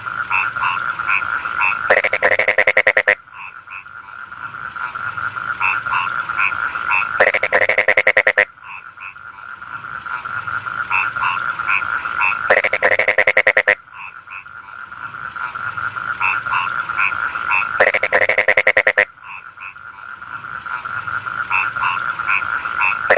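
Rice-field frogs calling in a chorus: a steady high trill with short repeated notes, broken about every five seconds by a loud, rapid rattling croak lasting about a second.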